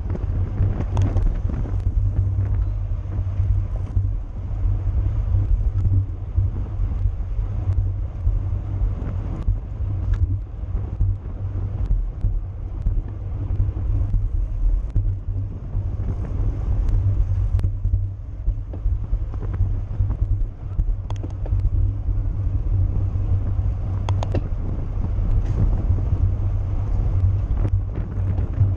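Wind buffeting the microphone of a camera riding along in a bicycle criterium race: a steady low rumble, with scattered sharp clicks and knocks.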